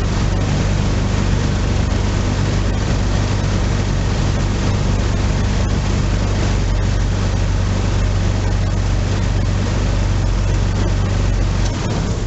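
1998 Nissan Pathfinder's 3.3-litre V6 running steadily at idle on freshly fitted spark plugs and plug wires, meant to cure a random misfire. The sound drops away just before the end.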